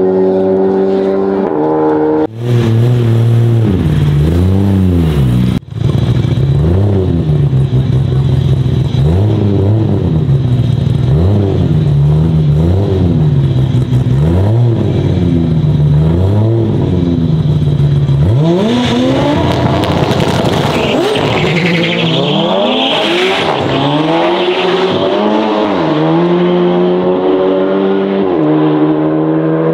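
The engine of a 1200 hp Nissan Skyline R34 GT-R, first running steadily, then revved up and down over and over at about one rev a second. A hiss rises over the revs for several seconds past the middle, and the engine settles back to a steady idle near the end.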